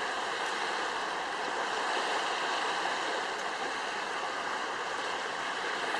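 Steady rushing of waves and water.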